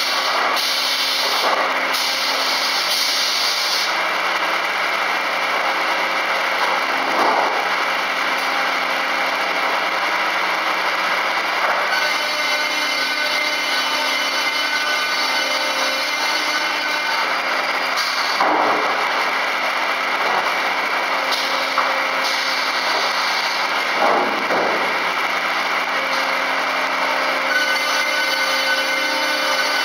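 FKD 500 double-arbor circular sawmill running and sawing timber: a steady machine hum with blade whine, and three brief dips in pitch spread through it.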